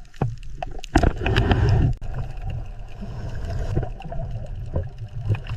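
Water sound of the kind used for an underwater scene: a steady low rumble with gurgling and scattered short clicks, and a louder rushing surge about a second in that lasts about a second.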